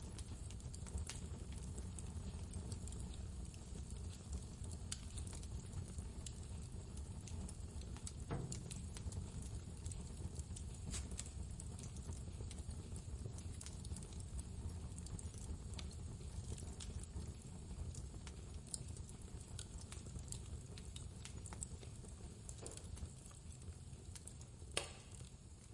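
Wood fire crackling with scattered sharp pops over a steady low rumble of blizzard wind. The loudest pop comes near the end.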